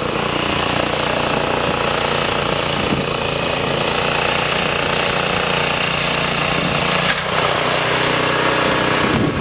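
Small engine running steadily under a strong hiss, with a brief knock about seven seconds in.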